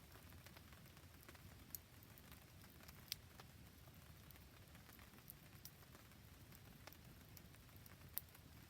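Faint steady rain with a wood campfire, and scattered sharp ticks and pops; the loudest fall about two, three and eight seconds in.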